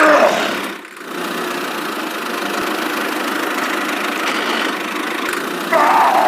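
Small motor of a homemade mini tractor running steadily under load, with a brief drop about a second in. A louder warbling sound comes in near the end.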